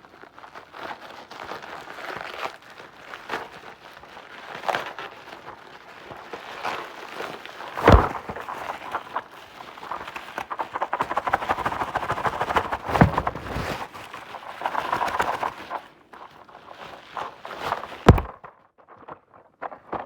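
A shipping package being opened and handled by hand: continual rustling and scraping of packaging, broken by a sharp knock about eight seconds in and another near the end.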